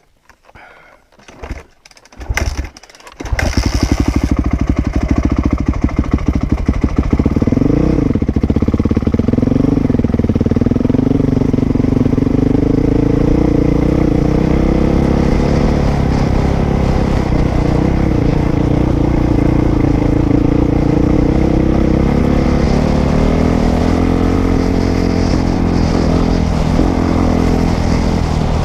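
Dirt bike engine starting up about three seconds in, then running, rising and falling in pitch twice as it revs, and carrying on in a steady run.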